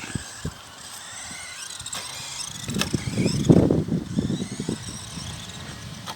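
Small battery-electric RC trucks' motors and gears whining, rising and falling in pitch as they are throttled on and off. About halfway in there is a sharp knock followed by a rough low rumbling that fades over the next two seconds.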